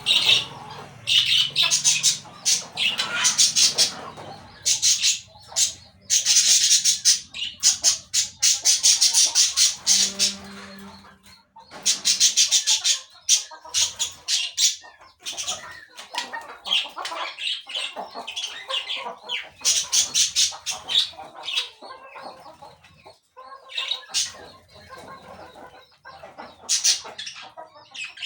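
Parakeets squawking and chattering in a run of harsh, rapid calls, loudest in the first half and softer, broken chatter after that.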